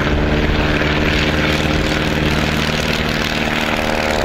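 Piper Super Cub's piston engine and propeller running at steady power, an even droning note during short takeoff and landing practice.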